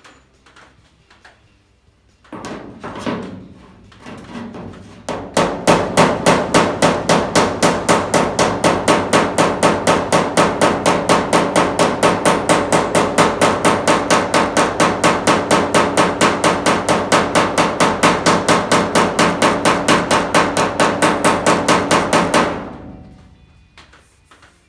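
Hammer striking sheet metal in a fast, very even series of blows, about five a second, lasting some seventeen seconds. A few seconds of irregular knocking come first.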